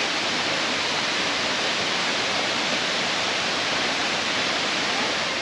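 Small rainforest waterfall, running full, rushing steadily.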